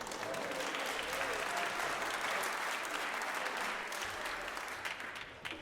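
Audience applauding, swelling in at the start and dying away near the end, with individual sharp claps standing out as it thins.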